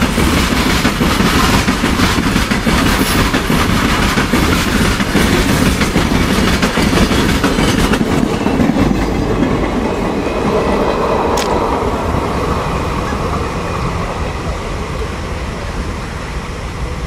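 Loaded freight wagons rolling past close by, their wheels clattering over the rail joints. After the brake van passes, about eight seconds in, the sound thins and slowly fades as the train moves away.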